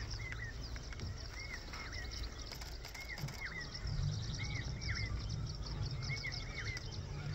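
Birds calling in open grassland: one bird repeats pairs of short rising-and-falling whistled notes about every second and a half, over many faint high chirps, with a low rumble underneath.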